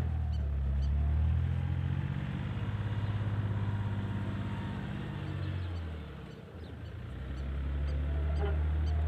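A heavy engine running with a low, steady hum, dropping away about six seconds in and building back up a second or so later.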